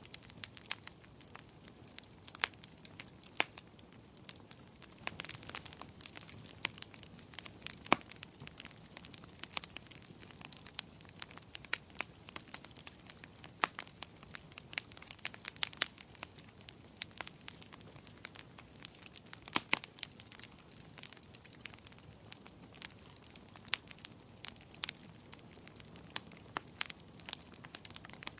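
Fireplace fire crackling: irregular sharp pops and snaps, a few of them much louder, over a low steady hiss.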